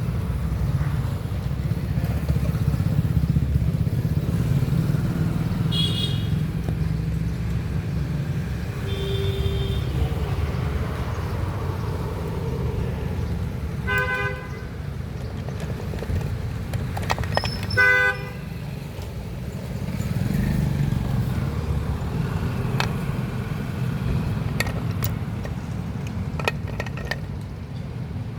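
Steady low rumble of road traffic with vehicle horns sounding briefly four times, the loudest about two-thirds through. A few light clicks near the end.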